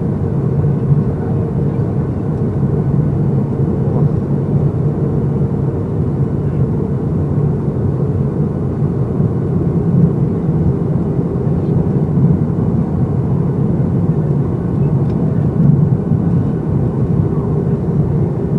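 Steady cabin noise of a Boeing 737-800 in flight: the low drone of its CFM56 engines and the rush of air past the fuselage, with a faint steady hum, heard from a window seat inside the cabin.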